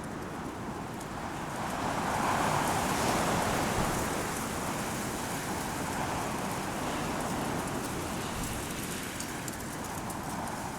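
Strong wind blowing through Teide broom (retama) bushes, their stiff branches and leaves rustling and clicking. A gust swells about two seconds in and slowly eases.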